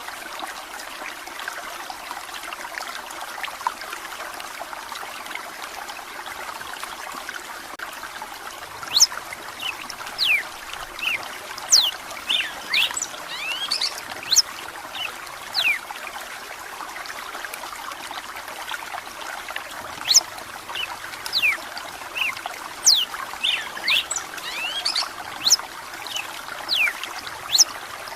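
Running water trickling steadily. About a third of the way in, a red-cowled cardinal (galo-de-campina) starts singing in repeated bursts of quick, sharp whistled notes that glide in pitch.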